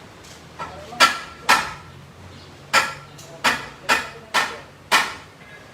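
Seven sharp metal-on-metal strikes, unevenly spaced, each with a brief ringing tail.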